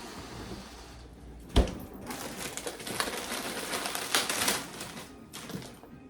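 A sharp knock, then a few seconds of clattering and rustling as things are handled.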